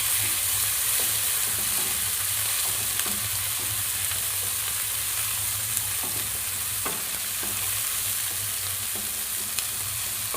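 Chopped onion, green chilli, capsicum and tomato sizzling in hot oil in a kadai while being stirred, a steady hiss with a few short clicks of the spatula against the pan.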